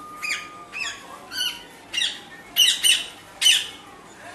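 A parrot squawking repeatedly, about seven short harsh calls, with the loudest ones in the second half.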